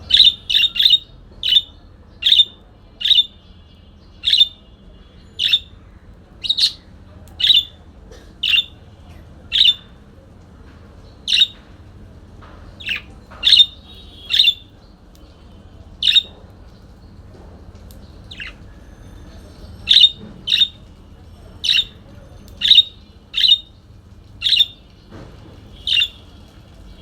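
Parakeet giving short, sharp squawking calls over and over, about one a second with a few brief pauses.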